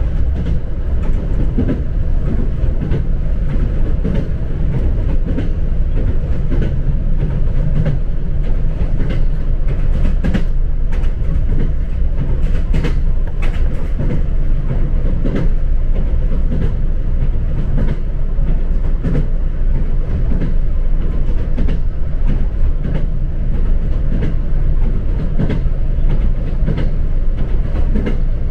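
Train running along the track, heard from inside the passenger car: a steady low rumble with the wheels clicking over rail joints now and then, more clicks around the middle.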